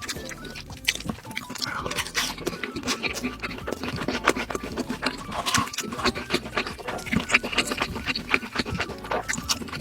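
Close-miked chewing and wet mouth sounds of a person eating, a dense irregular run of short smacks and crunches.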